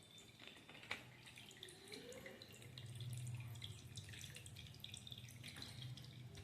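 Water dripping and trickling faintly from pin holes in a plastic water bottle. There is one sharper tick about a second in, and a low hum joins about two and a half seconds in.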